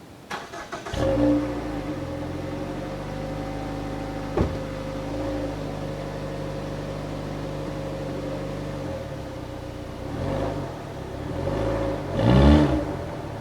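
2009 Mazda 6 four-cylinder engine started: the starter cranks briefly and the engine catches about a second in with a flare of revs, then settles to a steady idle heard at the exhaust. A sharp click comes about four seconds in, and near the end the throttle is blipped three times, the last rev the highest.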